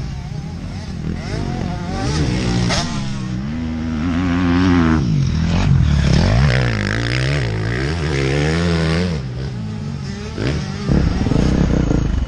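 An off-road vehicle's engine revving up and down, its pitch rising and falling over and over as it is ridden, with a louder, rougher stretch near the end.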